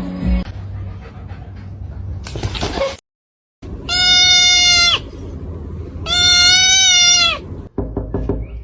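An animal calls twice, each call about a second long and held at nearly one pitch.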